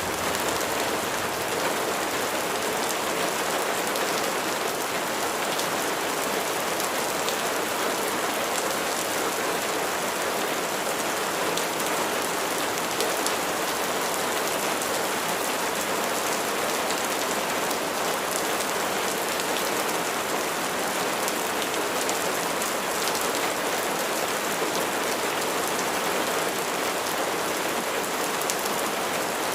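Steady rain falling, an even hiss with fine pattering of drops on surfaces.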